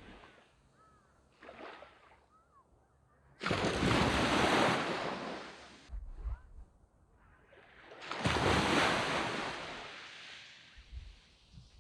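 Sea waves breaking on a sandy beach: two waves crash, one about three and a half seconds in and another about four and a half seconds later, each arriving suddenly and slowly washing away, with a quiet hiss between them.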